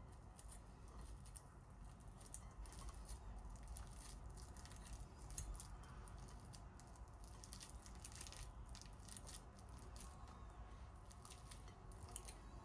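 Faint, scattered clicks and rustles over a low, steady hum.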